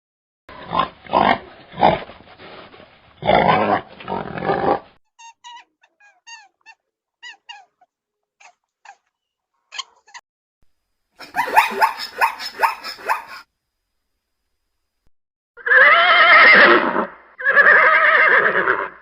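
A run of different animal calls, one after another: short repeated grunts, then a series of faint high chirps, then a rougher call, and two long calls near the end.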